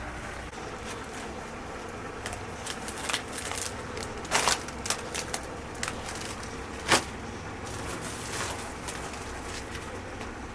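Irregular clicks and crackles over a steady low background noise, with the sharpest ones about four and a half and seven seconds in.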